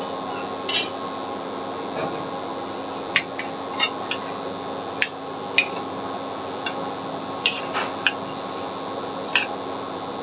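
Potato-and-flour snack rolls frying in hot oil in a pan: a steady sizzle with a dozen or so scattered sharp clicks.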